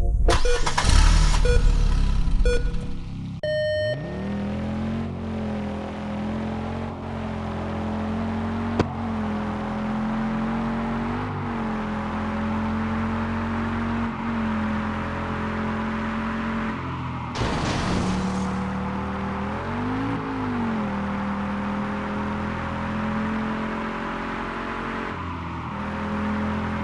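Race car engine sound effect running steadily, its pitch rising and falling slightly in short revs, with a pitch dip and rise about seventeen to twenty seconds in. It is preceded by a loud noisy burst in the first few seconds and a short bright ring.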